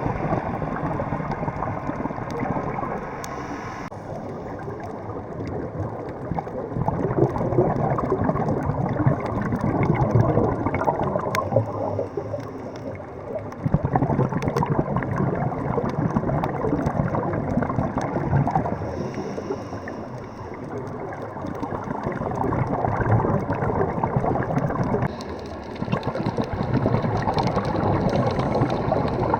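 Muffled rushing and gurgling water, a dense low noise that swells and fades, changing abruptly a few times.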